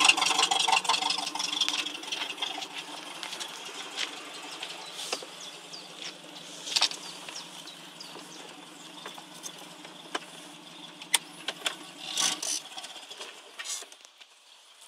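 Ford Pinto 2.0-litre four-cylinder engine of an Eagle RV kit car idling. It is loud at the exhaust tailpipe for the first two seconds, then quieter and steady, with occasional clicks and knocks. The engine note fades out near the end.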